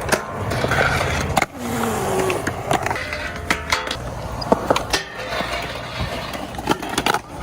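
Skateboard wheels rolling over pavement with a steady rumble, broken by several sharp clacks of the board from pops and landings.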